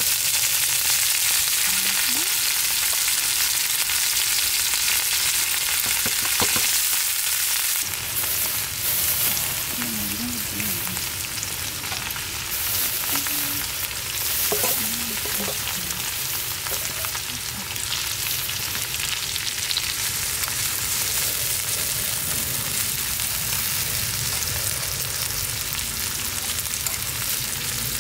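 Scallops, ginkgo nuts and garlic cloves sizzling in a hot black griddle pan: a steady frying hiss.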